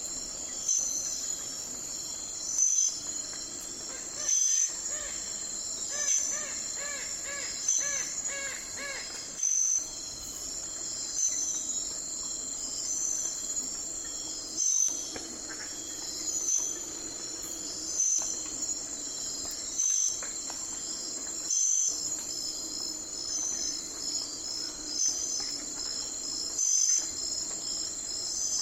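Night-time insect chorus of crickets, a steady high trill with a louder chirp pulsing about once a second. For a few seconds near the start, an animal gives a run of about eight short, evenly spaced pitched calls.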